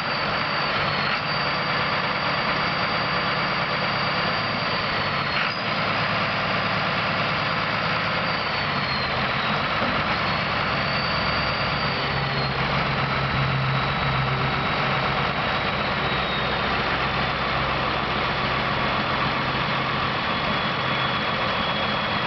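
Massey Ferguson 4270 tractor's diesel engine running steadily, with a thin high whine over it that drifts slightly in pitch.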